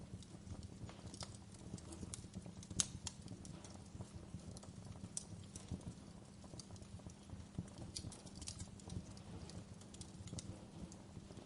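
Wood fire burning in a fireplace: a low steady rumble under irregular crackles and pops, with a sharper pop about 3 seconds in.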